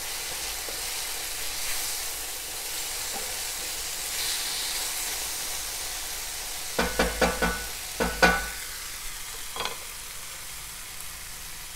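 Tomato-pepper base in palm oil sizzling steadily in an enamelled cast-iron pan as a wooden spatula stirs it, with a few knocks and clatters about seven and eight seconds in.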